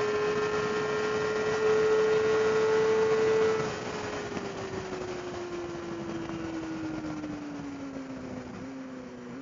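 600 cc sport motorcycle engine held at steady revs, then about three and a half seconds in the throttle closes and the note drops in loudness and falls slowly in pitch as the bike slows, with a small step in pitch near the end.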